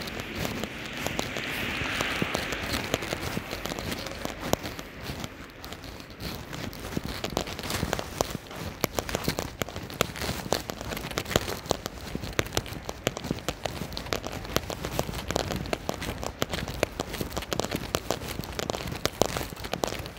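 Steady rain pattering, a dense crackle of small drops landing close by. About two seconds in there is a brief swell of hiss.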